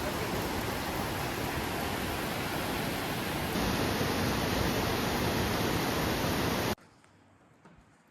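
Steady rushing noise of falling water from a waterfall, stepping a little louder about three and a half seconds in and cutting off abruptly near the end.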